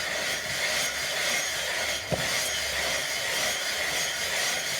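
Honda XRE/Tornado cylinder head being rubbed face-down over sandpaper on a flat ceramic tile, giving a steady scraping hiss with a single knock about two seconds in. The head face is being lapped flat because it is warped and leaks oil at the exhaust side.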